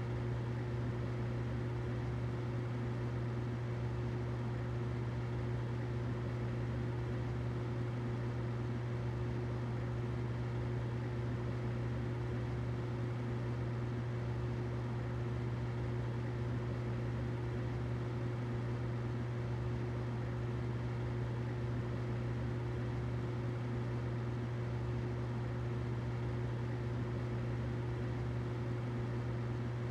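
Humidifier running steadily: a constant low hum with a fainter steady tone above it and an even hiss.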